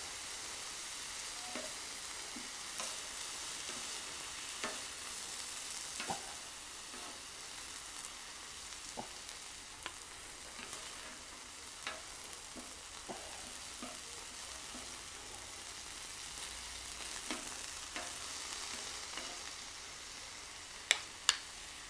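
Beef strips and julienned vegetables sizzling steadily on a cast iron griddle over low heat, with scattered light scrapes and taps of a wooden spatula on the iron. A few sharper knocks near the end.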